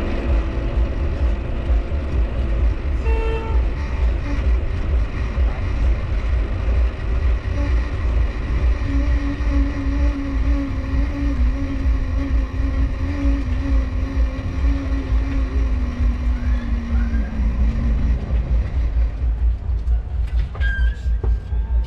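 Mifa folding bicycle being ridden, its dynamo humming and wavering in pitch with speed over a steady low rumble. There is a short squeak about three seconds in and a few clicks near the end, in keeping with the squeaking cranks.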